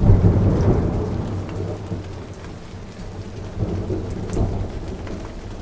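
Thunder rumbling over steady rain: a loud low roll at the start that fades over about two seconds, then a second, weaker rumble near the end.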